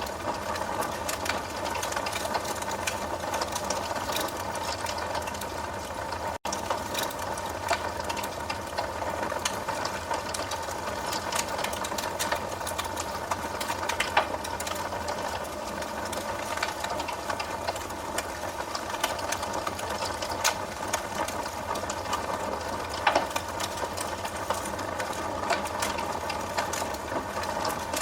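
Wood fire crackling: a dense, continuous run of small snaps and pops over a steady hiss, with a few louder pops scattered through. The sound drops out for a split second about six seconds in.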